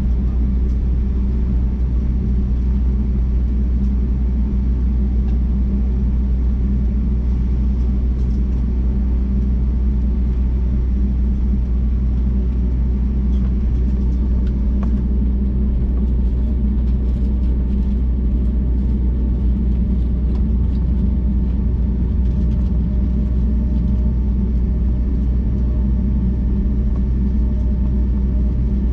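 Jet airliner cabin noise: a steady low rumble from the engines and airflow, with a few steady hum tones over it.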